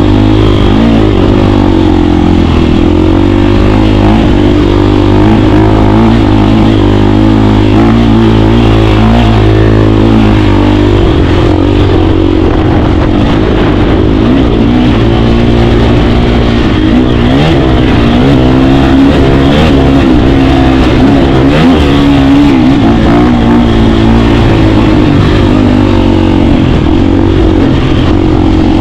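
KTM 350 dirt bike's four-stroke single-cylinder engine running while riding, its pitch rising and falling with the throttle over a loud steady rumble.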